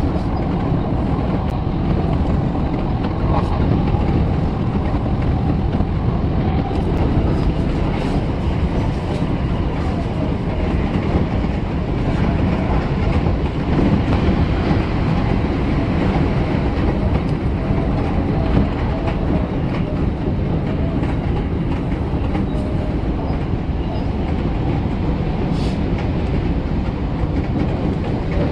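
Odakyu 3000-series and 8000-series electric train running along the line, heard from inside the driver's cab: a steady rumble of wheels on rails with a few light clicks.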